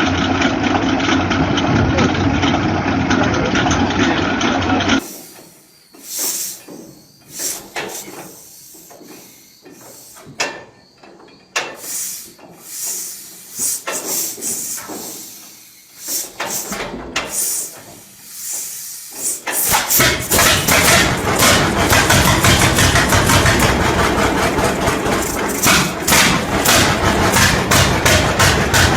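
An old engine running for the first few seconds. It is followed by a quieter stretch of separate knocks and short hisses. From about two-thirds of the way through, an engine runs loudly with rapid, even firing strokes.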